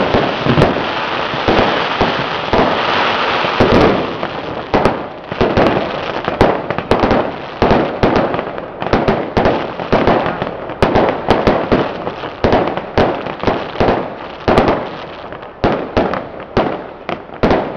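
Firecrackers going off: a dense, rapid crackle for the first few seconds, then separate sharp bangs several times a second, irregularly spaced.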